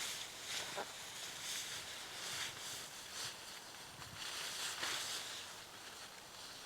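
Footsteps crunching through snow, a short crunch roughly every second.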